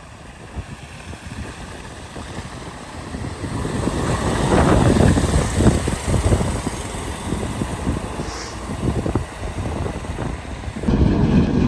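Snow-clearing vehicle's engine running as it pushes and piles snow in a parking lot, growing louder to its peak about halfway through, over gusty wind.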